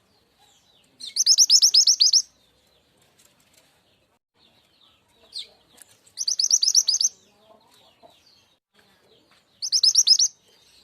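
Mantenan gunung (truntung weru) song played as a trapping lure: three bursts, each a rapid run of about ten sharp high notes lasting about a second, separated by several seconds of faint chirping.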